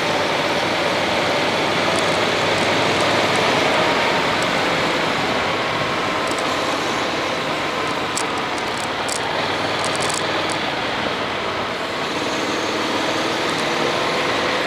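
Honda X-ADV's parallel-twin engine running under way, its pitch drifting slowly with road speed, under a steady rush of wind and road noise on the action camera's microphone. A few light ticks come through about eight to ten seconds in.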